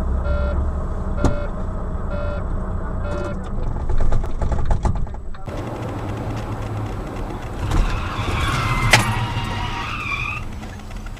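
Car and road noise from dashcam footage, with short electronic beeps repeating in the first few seconds and a run of clicks. After a cut about halfway in, traffic noise with wavering high tones and one sharp knock.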